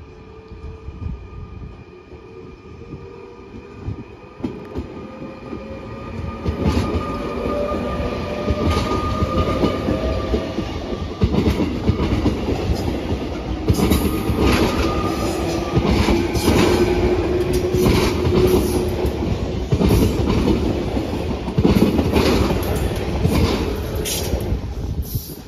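A train passing through the station: the rail noise builds over the first few seconds, then a loud rumble with irregular clacking over the rail joints and a thin whine that slowly rises in pitch. The noise drops away suddenly just before the end.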